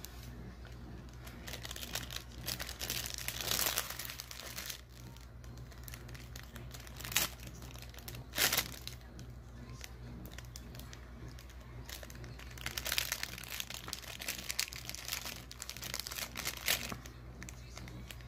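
Crinkling and rustling of a blind bag's packaging as it is torn open and handled, irregular throughout with several louder crinkles.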